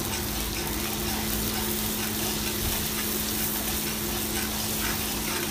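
Sliced onions and ginger-garlic paste frying in hot oil in a wok, sizzling steadily as a metal ladle stirs them, over a steady low hum.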